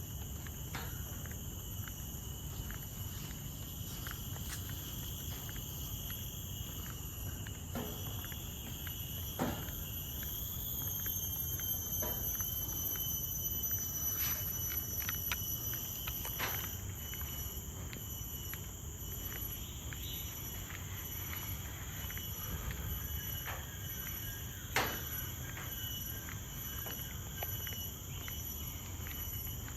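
Steady chorus of tropical forest insects: several high, continuous buzzing tones layered over a low rumble, with scattered faint ticks and one sharper click about 25 seconds in.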